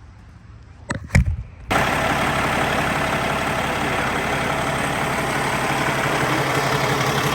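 Semi truck's diesel engine starting: a short crank about a second in, then it catches and settles into a steady idle. It is being run to check a newly replaced coolant part for leaks.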